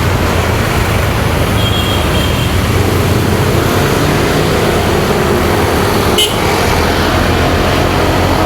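Motorcycle engine running steadily under wind and road noise, amid traffic. A short high beep comes about two seconds in, and a brief sharp click about six seconds in.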